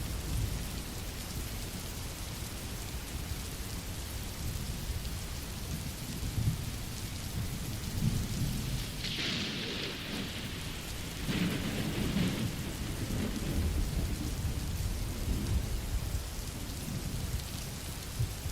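Steady rain, an even hiss, with a low rumble underneath that swells and fades. Two brief louder surges of rain noise come about halfway through.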